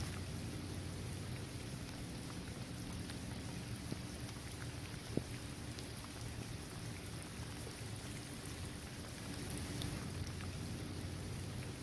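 Steady rain falling on a hard basketball court, trees and grass, with scattered individual drop taps over a constant low rumble and one sharper tap about five seconds in.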